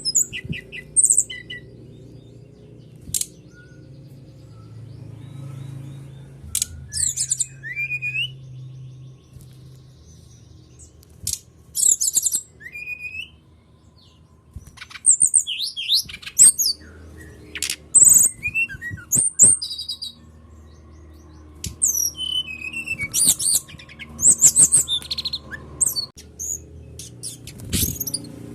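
Brown-chested jungle flycatcher (sikatan rimba dada coklat) singing: clusters of high, quick chirps, short trills and rising whistled notes with brief pauses between phrases, over a faint low hum. It is a lure track played to prompt caged birds to sing.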